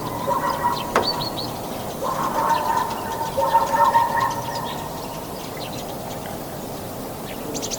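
Birds chirping and calling: repeated short high chirps over overlapping pitched calls, busiest in the first half and thinning out toward the end.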